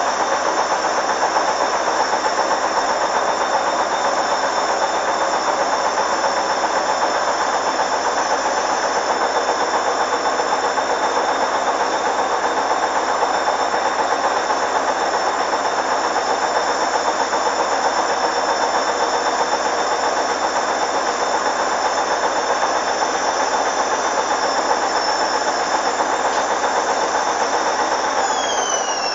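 Hoover Dynamic washing machine spinning at high speed: a steady motor whine over the rush of the turning drum. Near the end the whine starts to fall in pitch as the spin begins to slow down.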